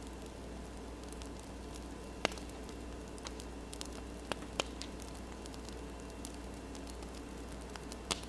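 Wood fire crackling: a steady soft hiss with scattered sharp pops, the loudest a little over two seconds in and others just past the middle and near the end.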